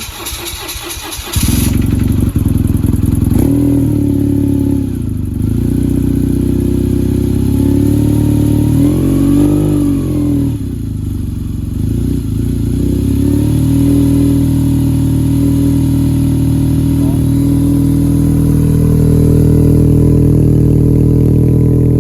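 BMW motorcycle cold-started with the choke on: the starter cranks for about a second before the engine catches first try. It then runs on the titanium exhaust with a brief blip of revs about nine seconds in and smaller ones around four and thirteen seconds, otherwise holding a steady high cold idle.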